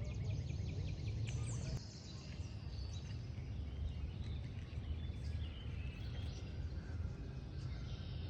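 Outdoor ambience of assorted birds chirping over a steady low rumble, with a rapid ticking trill in the first second and a half.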